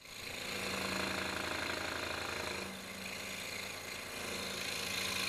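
A small motor-driven machine running steadily with a fast, even whir and a low hum, dipping a little in level about three seconds in.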